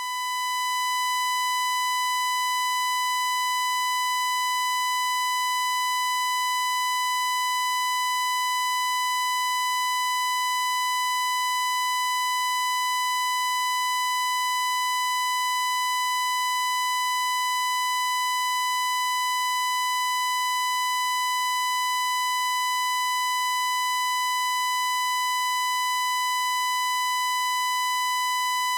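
Steady high-pitched electronic tone held at one unchanging pitch, fading in over the first second.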